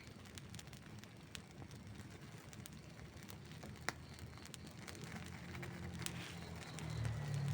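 Burning wood in an outdoor campfire crackling and popping in scattered sharp snaps, one louder pop about four seconds in. Over the last couple of seconds a low steady hum rises and grows louder beneath the crackle.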